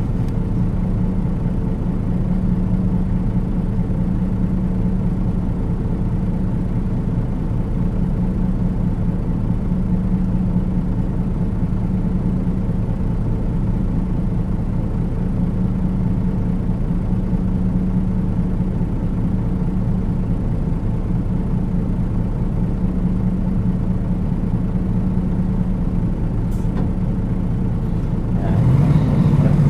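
Diesel engine of a Nissan Diesel KL-UA452KAN city bus, heard from inside the cabin, running with a steady hum at one unchanging pitch. Near the end it revs up and the pitch rises.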